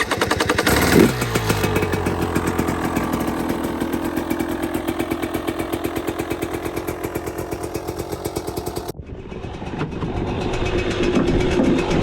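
Two-stroke dirt bike engine, the KTM 300 XC-W TPI, blipped once about a second in and then idling with a fast, even pulse. Near the end the sound changes abruptly to an engine running a little higher.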